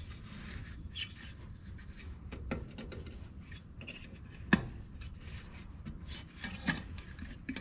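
Hands working a headlight bulb and its retaining clip into a tractor headlight housing: rubbing and scraping with a few sharp clicks, the loudest about four and a half seconds in.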